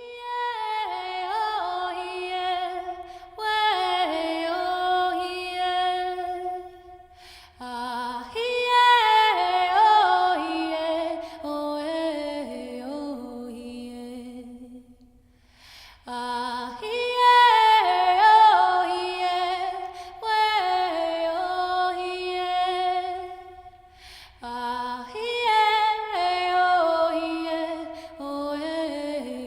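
Unaccompanied voice singing a slow Lakota song: long phrases that each start high and step downward in pitch, with short breaths between them.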